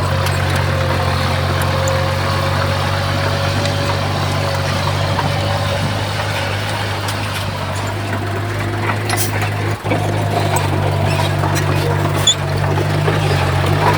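Crawler bulldozer's diesel engine running steadily, with a few light clicks and knocks in the second half.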